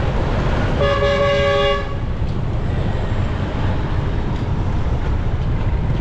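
Vehicle horn honking once for about a second, about a second in, over the steady low rumble of wind on the microphone and road traffic from a motorcycle riding in city traffic.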